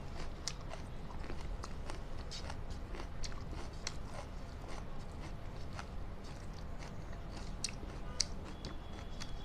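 A person chewing and biting food, with small, irregular crunches and mouth clicks.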